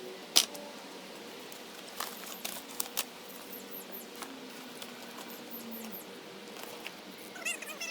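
A few sharp clicks and knocks, the loudest about half a second in and several more around two to three seconds, over faint high chirping that repeats throughout, with a short warbling call near the end.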